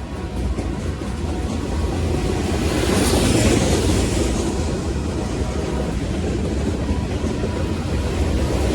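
Train running on the rails: a steady rumble that grows louder, swelling about three seconds in and again near the end.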